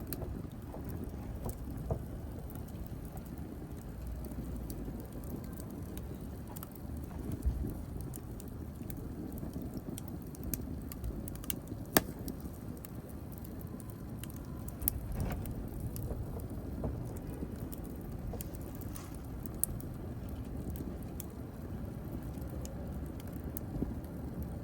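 Wood fire burning in a fireplace: a steady low rumble of flames with scattered sharp crackles and pops, the loudest single pop about halfway through.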